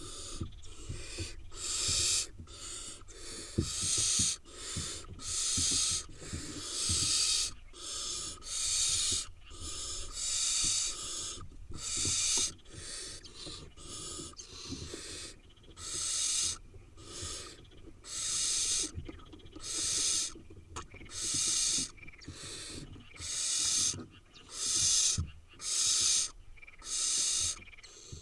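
Barn owl nestlings giving their rasping, hissing food-begging calls, about one call a second, each about half a second long. The calls of several chicks overlap.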